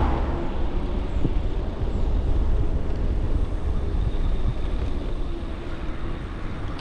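Wind rumble on the microphone and road noise while riding an e-bike along a street: a steady low rumble with a hiss over it.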